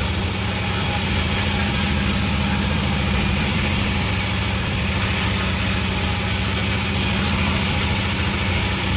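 A Panda36 sawmill running steadily: a low, even engine-like hum under a broad hiss, with no change in pitch or level.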